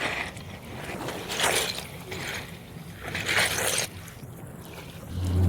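Seaside wind and water noise: a steady hiss that swells in short gusts about every couple of seconds, over a faint low drone. Music fades in at the very end.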